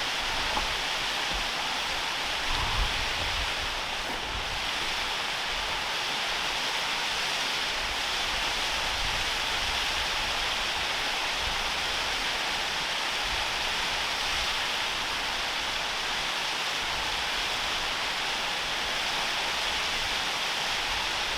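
Waterfall rushing, a steady unbroken hiss of falling water, with a few low bumps on the microphone in the first few seconds.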